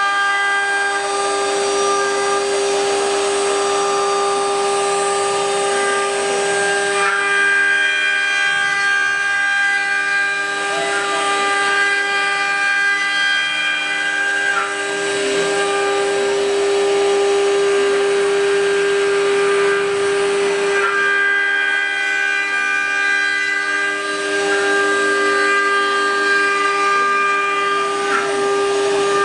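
4-axis CNC wood router running with its spindle giving a high, steady whine that holds throughout, with fainter shifting tones as the machine moves.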